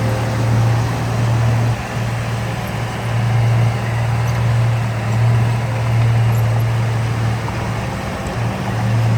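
Heavy diesel engine of an earthmoving machine running steadily under work, a deep hum over a rough mechanical rumble, with brief dips in level.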